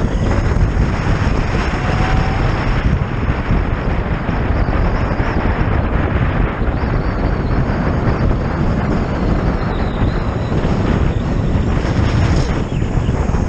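Steady wind noise buffeting the microphone, with road noise, while riding a Zero FX electric motorcycle; the electric drive adds no engine sound.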